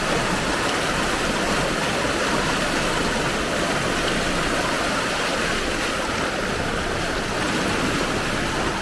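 Fast-flowing floodwater rushing along a flooded street: a steady, loud rush of water.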